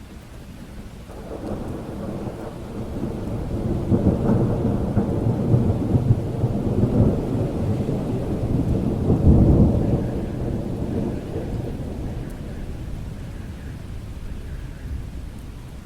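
A long roll of thunder over steady rain. It builds about a second in, is loudest about nine seconds in, and dies away near the end.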